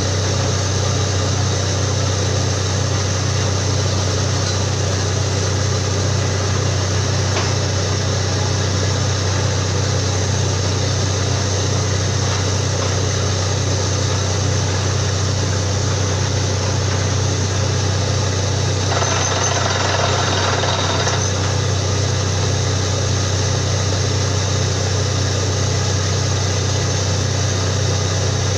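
Borewell drilling rig running steadily, its engine giving a constant low hum under a broad mechanical noise. A burst of hiss lasts about two seconds about two-thirds of the way through.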